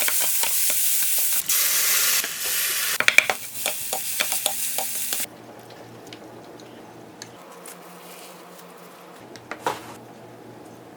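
Loud sizzling hiss with scattered crackles that cuts off abruptly about five seconds in. After that there is only faint room sound, with one short knock or clatter near the end.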